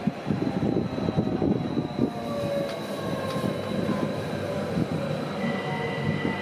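Rhaetian Railway ABe 8/12 'Allegra' electric multiple unit running slowly along the station track: the wheels rumble on the rails, with faint thin whining tones above. A further steady tone joins about five seconds in.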